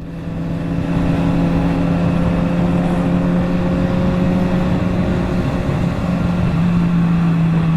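Motorcycle engine running at a steady speed, its note holding nearly level after the loudness builds over the first second, with a low wind rumble underneath.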